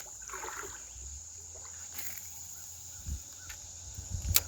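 Riverbank outdoor ambience: a steady high insect buzz over a low rumble, with soft rustling and small knocks from handling, and one sharp click near the end.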